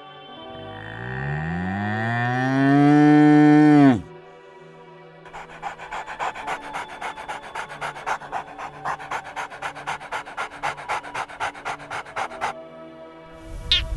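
A cow mooing once, a long loud call that rises in pitch, holds, then stops abruptly; after a short pause comes a run of quick rhythmic panting breaths, about four a second, lasting some seven seconds. Soft background music sits underneath.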